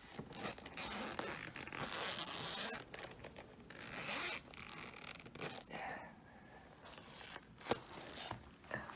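Zipper of a small suitcase-like case being unzipped, in a long run over the first three seconds and a shorter pull about four seconds in. After that come scattered light clicks and rustles as the case is handled.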